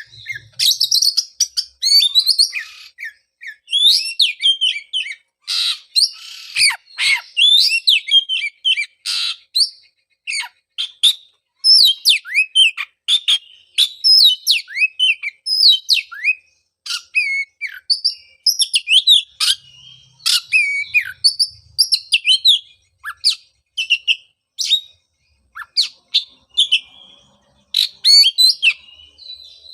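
Oriental magpie-robin (kacer) singing a loud, fast, varied song of whistled notes, slurs and trills broken by a few harsh rasping notes, phrase after phrase with short gaps.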